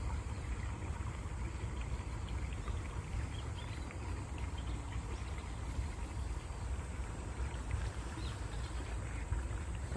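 Steady flowing water of a stream, a continuous rushing with fine trickling detail.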